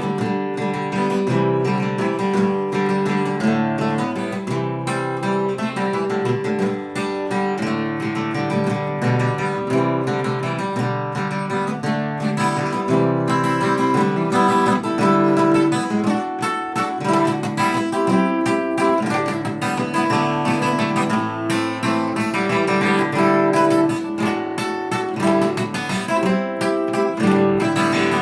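Acoustic guitar strummed and picked in an instrumental break of a folk song, without singing.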